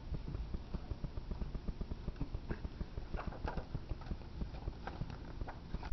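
A cat being handled and turned over on a table: a run of soft, irregular taps and bumps.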